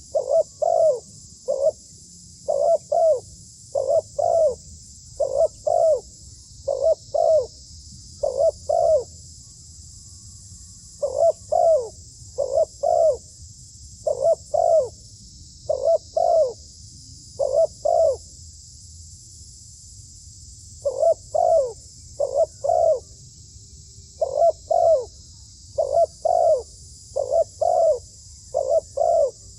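A dove cooing over and over in short, paired notes about every second and a half, pausing once for a few seconds just after the middle.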